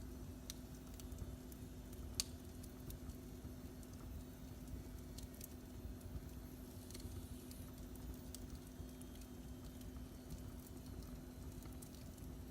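Wood fire in a fireplace crackling faintly, with scattered sharp pops, the loudest about two seconds in, over a low rumble and a steady low hum.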